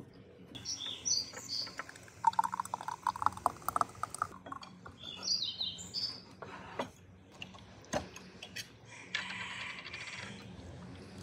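Small birds chirping in short high calls, once about a second in and again around five seconds in, among the clatter and clinks of utensils on a pan and plates. Near the end a drink rushes out of a bottle into a glass.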